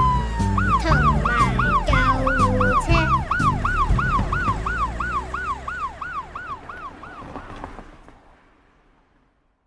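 Emergency-vehicle siren in a fast yelp, its pitch sweeping up and down about three times a second, fading away as it passes. Song music plays under the first few seconds.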